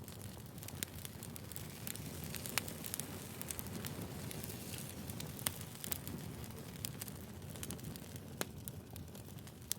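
Burning firewood crackling, with frequent irregular sharp pops over a steady hiss and low rumble.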